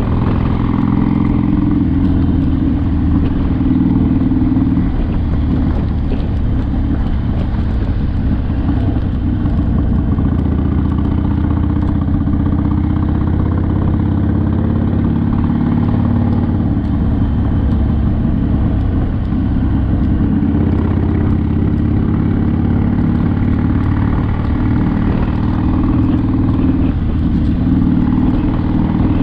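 Harley-Davidson Sportster's air-cooled V-twin engine running under way, a steady loud pulsing whose pitch shifts up and down a few times with throttle and gear changes.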